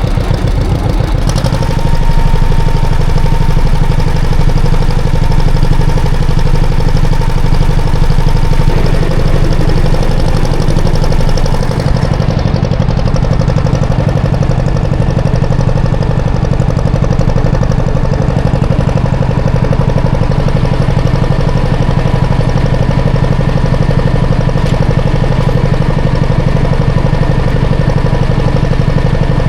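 John Deere tractor engine running steadily, a little louder from about two seconds in.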